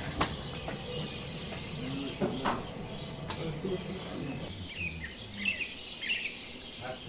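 Small birds chirping: many short, high chirps, with quick falling squeaky calls about four to six seconds in. A few sharp clicks come in between.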